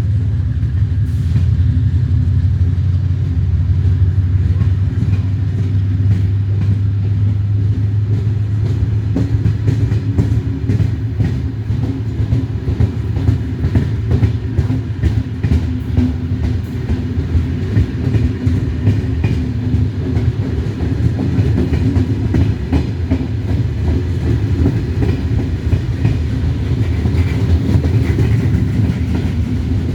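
A train running along the track: a steady low rumble with the clickety-clack of wheels over rail joints, the clicks coming thick from about ten seconds in.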